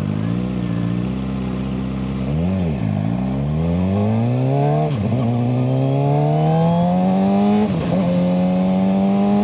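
Suzuki GSX-R600 inline-four sport bike engine with an M4 aftermarket exhaust, riding at steady revs with a brief rev up and down about two and a half seconds in. Then it accelerates hard, the pitch climbing with quick upshifts about five and eight seconds in.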